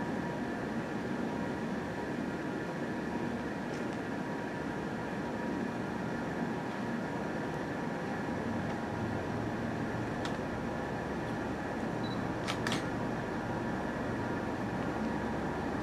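Low rumble of an approaching commuter train building from about nine seconds in, over a steady electrical hum; a few sharp clicks near the end.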